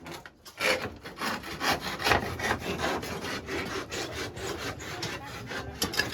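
Handsaw cutting through wood in quick back-and-forth rasping strokes, about two to three a second.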